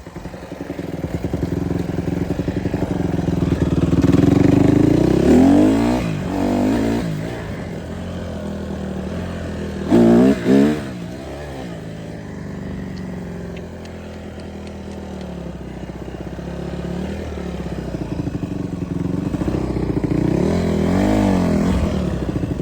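Honda CRF150R dirt bike's single-cylinder four-stroke engine running under a rider, revving up and down repeatedly. There are two quick, sharp blips of the throttle about ten seconds in, and more revving near the end.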